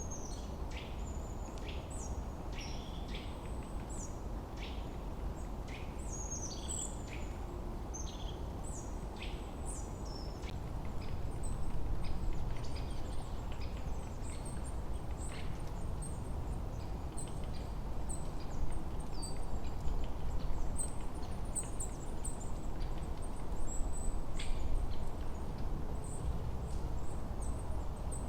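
Small forest songbirds chirping and calling in short, high notes, many overlapping, over a steady low rushing background.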